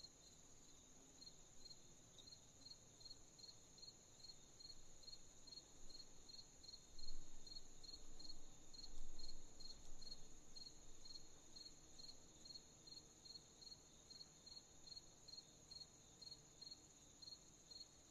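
Night chorus of crickets: a steady high trill with a second cricket chirping regularly, about two to three chirps a second. Two brief low rumbles stand out around the middle.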